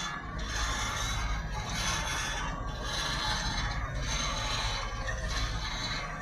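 Tractor working a soil-tillage implement in a field: a steady engine drone with continuous metallic rattling and scraping from the implement.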